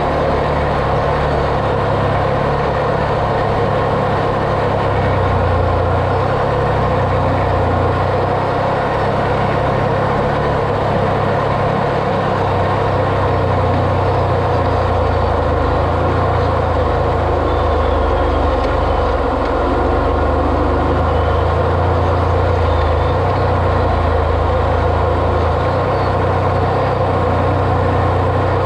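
Off-road vehicle being driven steadily: its engine runs at an even, low pitch that shifts slightly, with a constant rumble of tyre and road noise.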